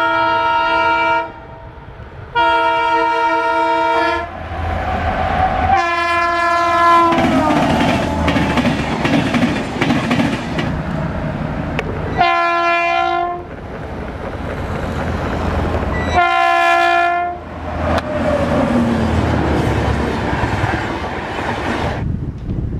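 Passing Indian Railways train: the locomotive's horn sounds five blasts, each a chord of several notes, the third and fifth dropping in pitch as the engine goes by. Between blasts the train runs past at speed with wheels clattering over the rail joints.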